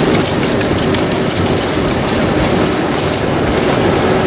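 Steady jet airliner cabin noise on the ground after landing, most likely while taxiing: an even engine hum and rumble with one constant low tone.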